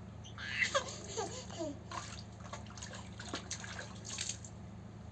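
Small children splashing and dabbling in rainwater: short splashes and drips, with a child's brief high-pitched babbling in the first two seconds.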